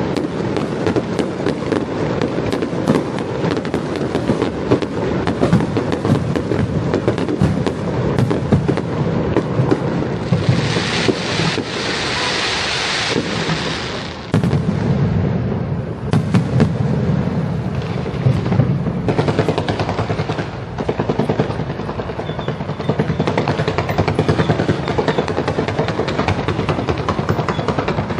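Fireworks show: a dense, unbroken run of bangs and crackles, with a stretch of loud hissing about ten seconds in that lasts some three seconds.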